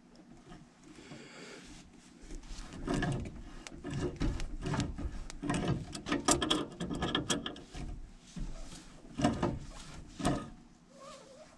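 Irregular knocking, clicking and rattling of hand tools and metal parts as a furnace's gas valve piping is worked on, busiest through the middle and easing off near the end.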